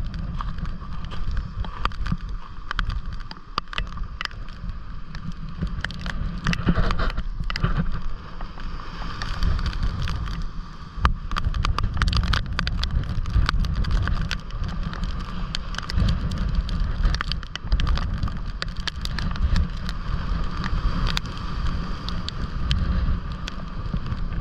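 Rough storm surf washing and breaking against a rock seawall, with wind buffeting the microphone in a heavy, uneven low rumble and many short crackles.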